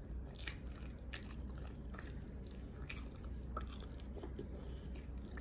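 A person chewing food close to the microphone: quiet, wet mouth sounds with scattered small clicks and smacks every half second or so, over a faint steady low hum.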